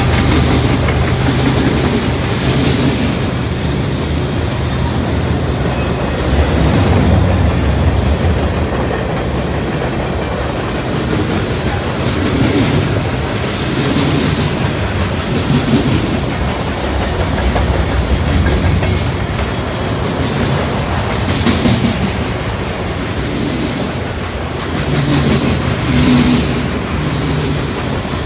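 Freight train cars rolling past close by: grain hoppers, then loaded centerbeam lumber flatcars. Their steel wheels make a steady rumble with repeated clickety-clack over the rail joints.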